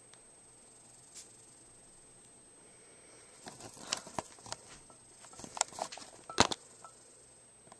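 Quiet at first, then a run of light rustling and tapping for a few seconds, with one sharper knock just before the end.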